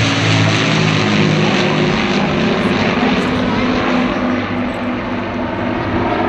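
Rolls-Royce Merlin piston engines of an Avro Lancaster bomber flying in formation with a Spitfire and a Hurricane: a steady, loud multi-engine propeller drone whose pitch drifts slowly, easing off a little after about four seconds.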